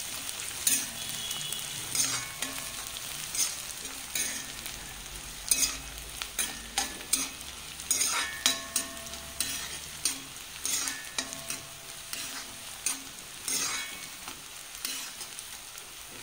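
Sliced shallots, curry leaves and dried red chillies sizzling in hot coconut oil in an aluminium kadai: a tempering being fried until it browns. A spoon stirs them, scraping and knocking against the pan about once a second.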